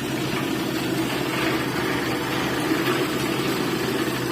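A machine running with a steady, even drone.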